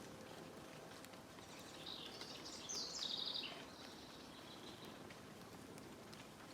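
A songbird singing one short phrase of quick chirps and a fast trill, about two seconds long and starting about a second and a half in, over faint steady outdoor background noise.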